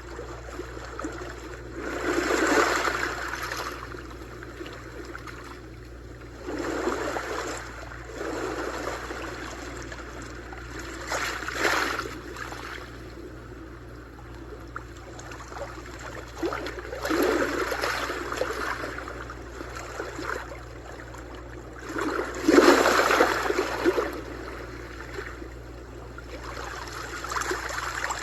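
Sea waves breaking and washing on a shore. Six crashes swell up and fall away, about one every five seconds, over a steady wash, and the fifth is the loudest.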